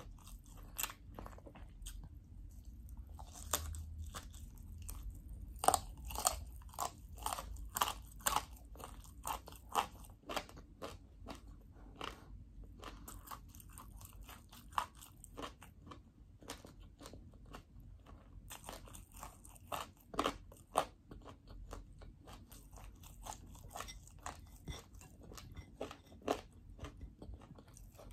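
A person chewing a mouthful of fried rice and meat: many short, crunchy clicking chewing sounds that come in clusters with brief pauses between them.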